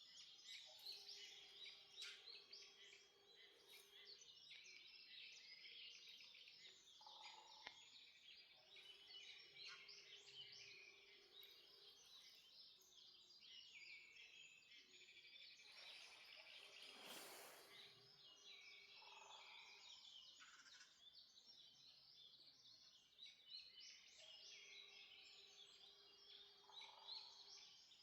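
Dawn chorus of many forest birds, dense overlapping chirps and trills. Through it a long, low, steady note of about three seconds recurs every seven or eight seconds.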